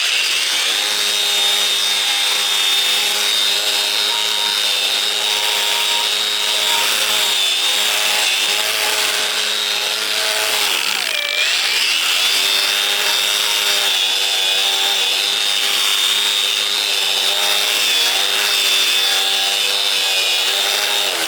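Handheld electric power tool running steadily under load with a high whine, its pitch sagging briefly about halfway through before picking up again.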